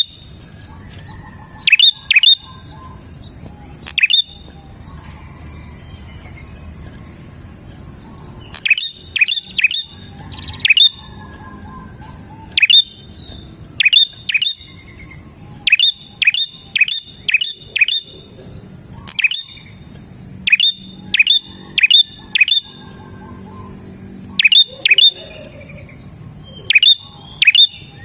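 Prinia (prenjak) calling: loud, sharp chirps in quick runs of two to five, repeated every second or two, over a steady high hiss.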